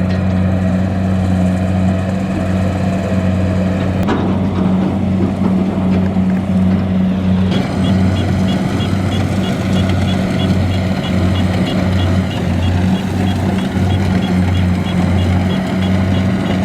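Kubota DC-70 combine harvester's diesel engine running steadily at working speed. About halfway through, a rapid, regular high-pitched warning beeper starts and keeps going.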